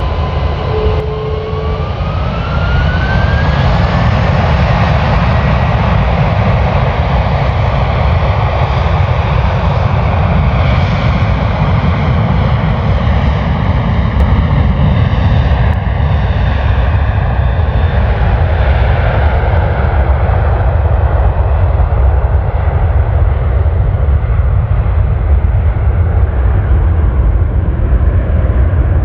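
Jet airliner's engines running loud, with a whine rising in pitch over the first few seconds as they spool up, then steady heavy engine noise.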